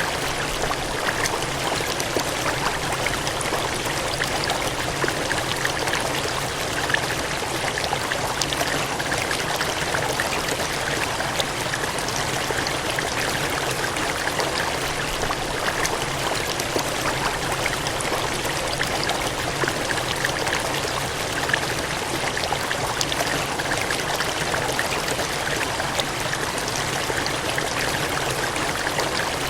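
Gushing, cascading water rushing steadily without a break, with a fine crackle of small splashes running through it.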